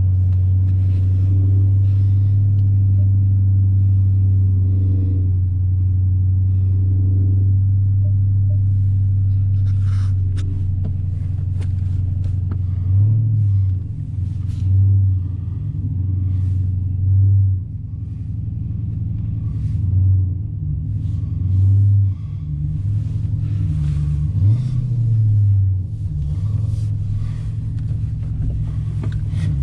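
Car engine idling with a steady low note, then blipped several times from about halfway through, each short rise in revs settling back to idle.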